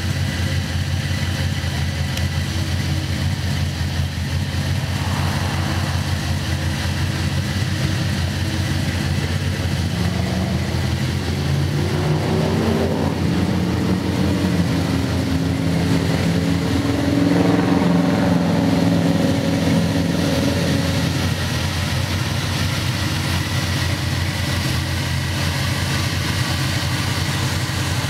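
1985 Chevrolet Monte Carlo SS's V8 idling steadily. From about ten seconds in until about twenty-one seconds, a louder sound of held, changing pitches plays over the idle.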